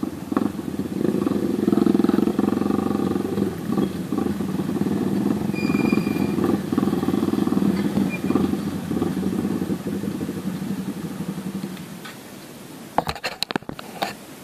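Yamaha Vixion's single-cylinder engine running as the motorcycle is ridden slowly and pulled up, its sound rising and falling with the throttle. The engine sound drops away about twelve seconds in, followed by a few sharp clicks.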